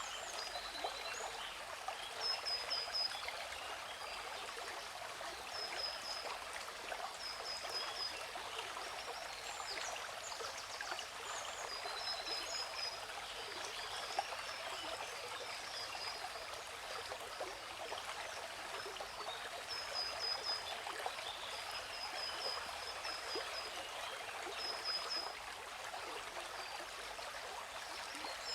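Waterfall rushing in a steady, even hiss. A bird calls over it every few seconds, each time a short, high group of two or three quick notes.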